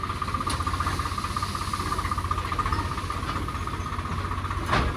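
Tractor engine running steadily with a low rumble, under a constant high, pulsing whine. A short knock just before the end.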